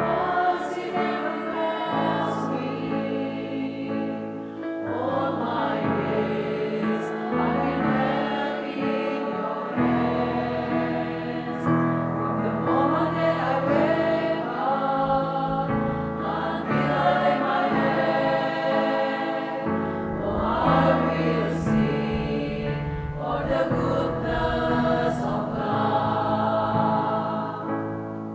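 Church men's choir singing a worship song in harmony over sustained low accompaniment notes that change every couple of seconds.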